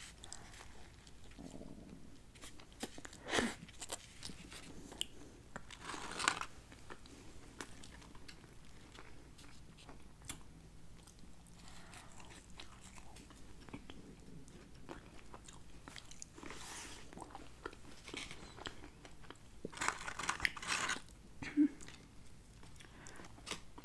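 Close-miked chewing and biting of a McDonald's cheeseburger and French fries, with soft mouth clicks throughout. A few louder crunchy bursts come around a third of the way in and again near the end.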